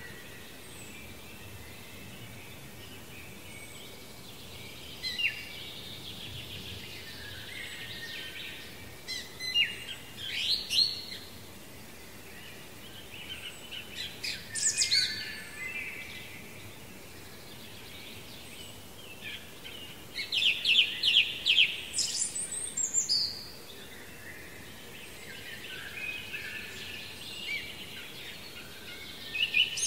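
Songbirds singing short, fast phrases a few seconds apart, some made of quick runs of notes, over a faint steady outdoor hiss.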